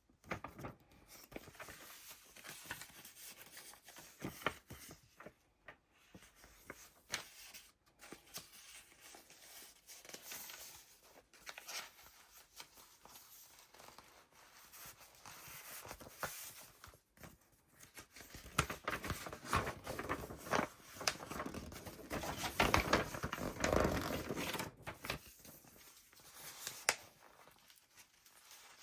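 Paper pages of a handmade junk journal being turned and handled, rustling and crinkling irregularly, louder and busier in the second half.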